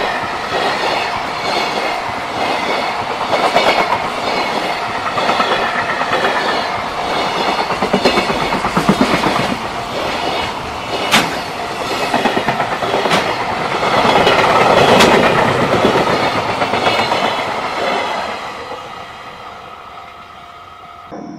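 Freight train of container flat wagons passing close by, its wheels clattering rhythmically over the rail joints with a few sharp clicks. It fades away near the end as the last wagon goes past.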